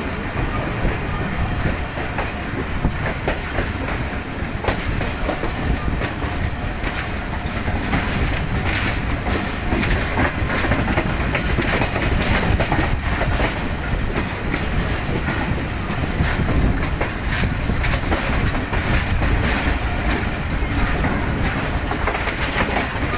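Passenger train running along the track: a continuous rumble with the clickety-clack of wheels over the rails.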